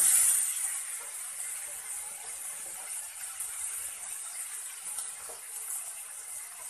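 Fish sizzling in hot coconut oil in a frying pan, just turned over: a hiss that is loudest at the start and then settles to a steady, quieter sizzle.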